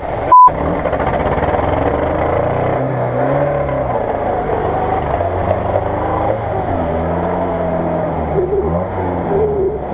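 UAZ-469 off-roader's engine revving under load as it churns through deep mud, its pitch rising and falling with the throttle. Just under half a second in, a short, loud single-pitch censor bleep cuts over everything.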